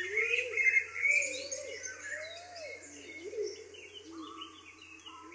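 Several birds calling and chirping at once: busy high chirps, loudest in the first second or so, over lower calls that rise and fall.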